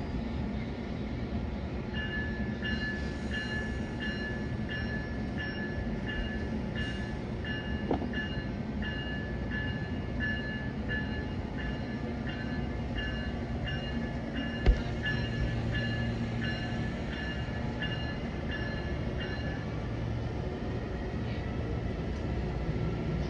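Amtrak passenger train running alongside with a steady low rumble. Through most of it a two-tone electronic beeping repeats about twice a second, stopping a few seconds before the end, and a single sharp knock comes about two-thirds of the way through.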